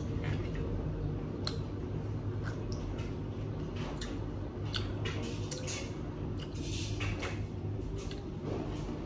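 Mouth sounds of chewing a juicy, crunchy pickle: scattered short wet crunches and smacks. Under them, the steady low hum of a washing machine running.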